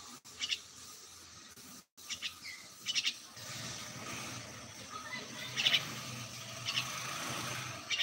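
A bird chirping: short, sharp high chirps in quick pairs and triplets, several times, over a steady background noise that swells from about three and a half seconds in.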